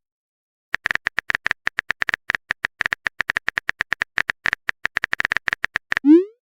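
Rapid, irregular phone-keyboard typing clicks, several a second, start after a brief silence. About six seconds in they end with a short rising swoosh like a text message being sent.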